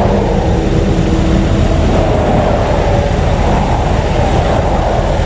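Steady, loud rumble of a heavy vehicle running, with a low engine drone whose pitch drifts slightly.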